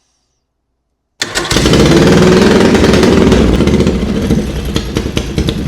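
Racing lawnmower engine starting about a second in, after a brief silence. It revs up, rising in pitch, then settles into a loud, uneven idle.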